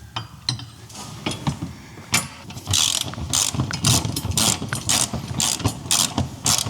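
Hand ratchet wrench clicking as a crash-bar mounting bolt is run in. A few light metal clicks come first, then from about two seconds in come repeated ratcheting strokes, about two a second.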